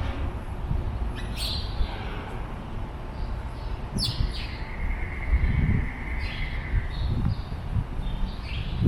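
Birds calling: a few short, sharp chirps and one longer, steady whistle, over a constant low rumble.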